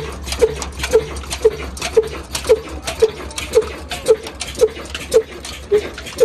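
Old single-cylinder desi diesel engine running slowly and evenly, each firing stroke a sharp knock, about two a second, over a steady low hum.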